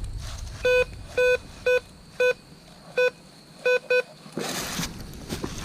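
Metal detector in coin mode giving seven short, low-pitched beeps at uneven intervals as it is swept over a silver half dollar buried a few inches deep, the low tone of a deep target. A brief rustle about four and a half seconds in.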